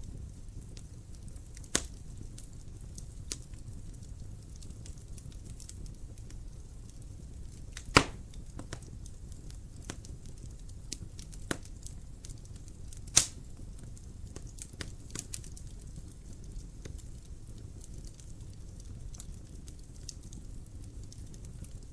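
Wood fire burning in a fireplace: steady low rumble of the flames with scattered crackles and a few sharp pops, the loudest about eight seconds in and another near thirteen seconds.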